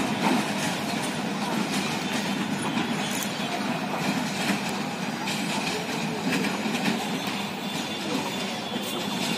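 Passenger coaches of a departing commuter train rolling away over station tracks and points: a steady rumble of wheels on rail with a few faint clicks from the rail joints.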